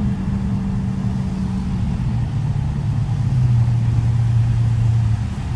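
The Dodge Charger Daytona's 392 Hemi V8 is running under way. Its low, steady engine note drops in steps partway through. The owner complains that the car is not loud enough and suspects an exhaust leak.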